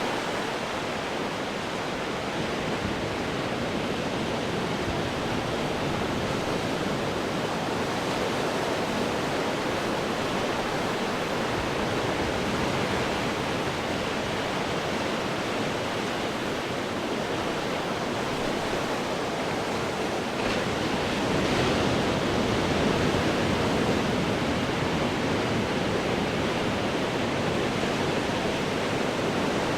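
Ocean waves breaking on rocks: a steady rush of surf that swells a little louder about two-thirds of the way through.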